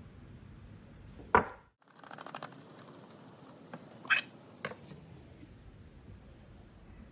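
A few sharp clicks and knocks over a faint steady hiss: one loud click a little over a second in, a brief rattle of small clicks after it, then two more clicks about half a second apart near the middle.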